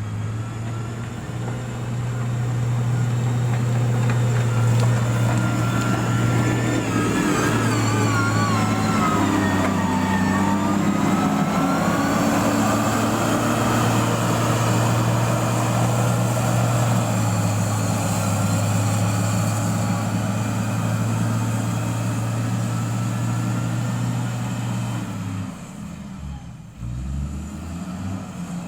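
Diesel engine of heavy road-building equipment running steadily under load, with a wavering high whine over it for several seconds in the first half. Near the end the engine note briefly drops away, then picks up again.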